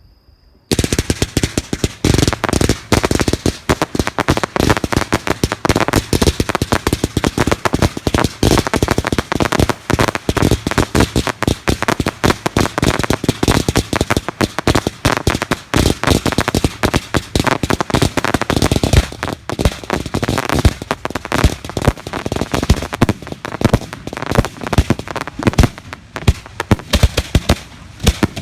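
Fireworks going off in a dense, rapid barrage of bangs and crackles. It starts suddenly just under a second in and thins out a little near the end.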